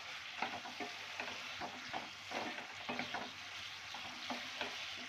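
Potato slices frying in masala in a non-stick pan, stirred with a wooden spatula. A steady sizzle runs under irregular scrapes and taps of the spatula against the pan.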